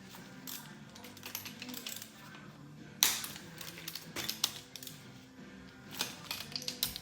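Hand tools working the engine's cylinder-head bolts: quick ratchet clicks and small metal clinks, with one sharp snap about three seconds in, over background music.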